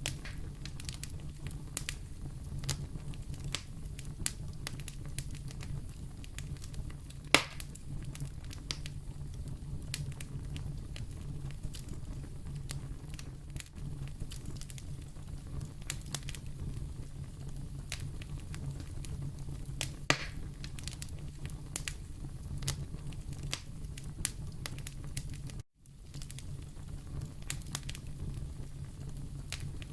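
Wood fire burning in a fireplace: many small crackles and snaps over a steady low rumble of the flames, with two louder pops about 7 and 20 seconds in. The sound drops out for an instant near the end.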